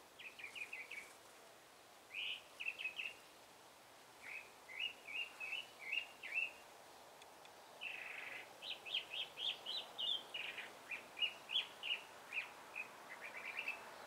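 A songbird singing: short phrases of rapid chirping notes, repeated with brief pauses, with a longer, higher run of notes about two-thirds of the way through.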